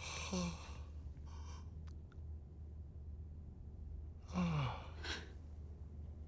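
A person sighing twice, breathy and falling in pitch: once about half a second in, and more strongly about four seconds in. A low steady hum runs underneath.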